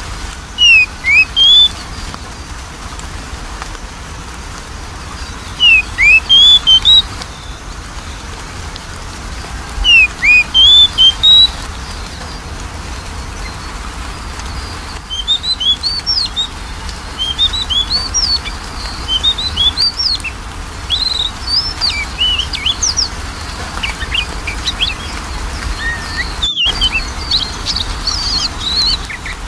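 Oriental magpie-robin singing: three loud phrases of quick rising whistled notes a few seconds apart, then from about halfway a faster, busier run of varied chirps and whistles, over a faint low hum.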